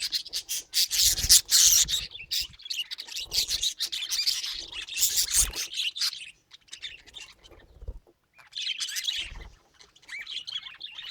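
Budgerigar chattering, with rapid chirps and warbles. The chatter goes quiet for about two seconds past the middle, then starts again.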